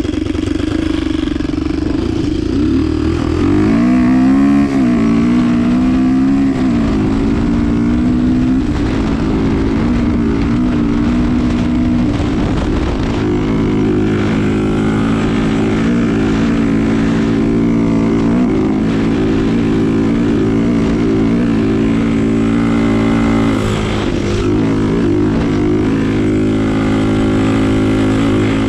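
Diabolini 250 cc four-stroke engine in a Yamaha DT 125 motorcycle running. Its speed rises and wavers for a few seconds, about three to eight seconds in, then settles to a steady speed.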